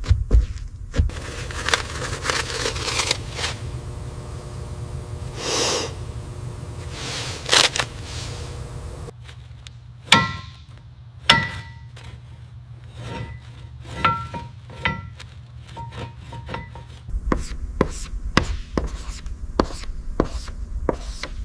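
Hand-tool work sounds: scraping and rubbing for several seconds, then a series of sharp taps that ring briefly like struck metal, then a run of quick knocks near the end.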